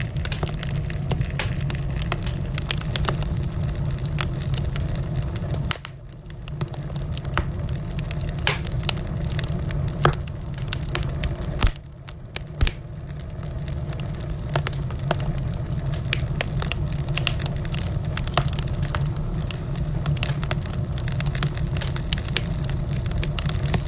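Wood fire burning in a fireplace, crackling with many sharp pops and snaps over a steady low rumble of the flames. The rumble drops away briefly about six seconds in and again about twelve seconds in.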